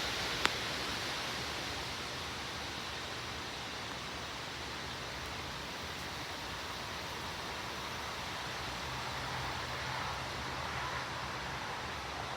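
Steady rushing noise of thunderstorm wind, with one sharp click about half a second in.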